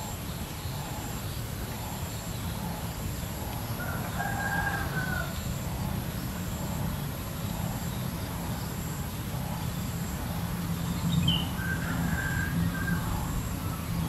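A bird calling twice, each call lasting about a second and a half, the first about four seconds in and the second near the end, over a steady low outdoor rumble.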